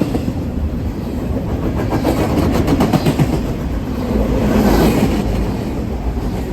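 Train passing close by, a steady rail rumble with a quick run of wheel clicks over rail joints about two to three seconds in, swelling louder near the five-second mark.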